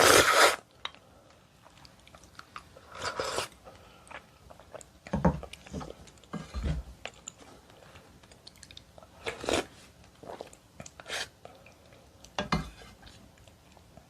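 Close-miked eating of seaweed oyster soup: about seven separate chewing and mouth noises a second or two apart, the loudest right at the start, with faint dish and spoon sounds.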